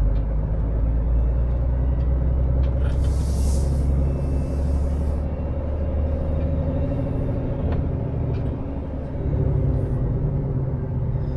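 Scania S500 lorry engine running steadily at low speed, with an air hiss lasting about two seconds starting about three seconds in, typical of the air brakes.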